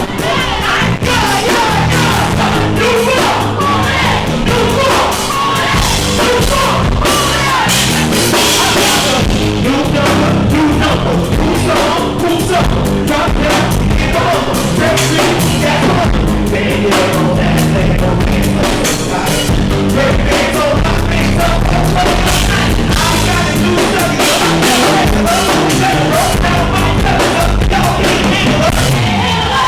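Live band with drums playing loud music under a lead vocal, recorded through a microphone overloaded by the club's sound system.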